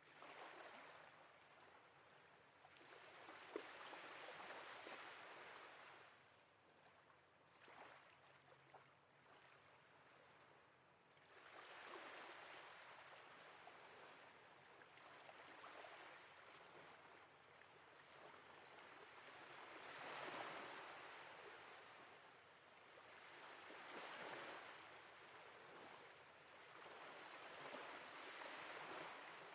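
Faint sea waves washing in and drawing back, one gentle swell about every four seconds.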